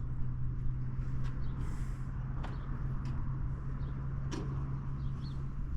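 Steady low mechanical hum with a few light clicks and taps scattered through it.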